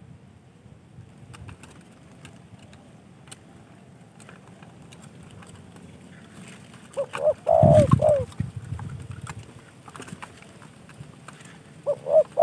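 Spotted dove (tekukur) cooing: a short phrase of several notes about seven seconds in, and another phrase starting near the end.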